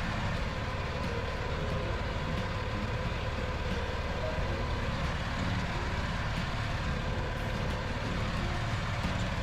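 Mini tractor's engine running steadily at a constant pace.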